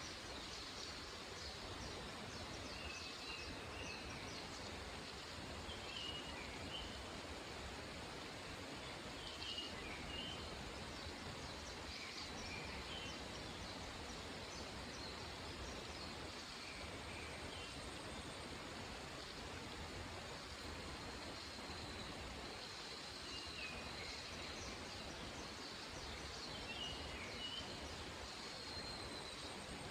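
Mountain forest ambience: a steady rushing background like a distant stream, with small birds giving short chirps every few seconds.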